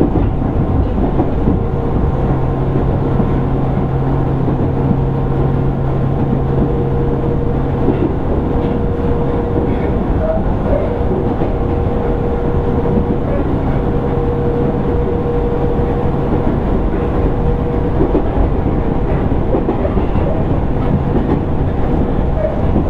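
Running noise inside a JR East 205 series 600 subseries electric train's motor car: a steady rumble of wheels on rail with a constant low hum from the drive, the train running at an even pace.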